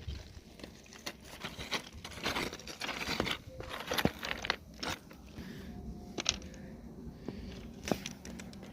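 A run of irregular crunches and clicks, dense in the first half and sparser later.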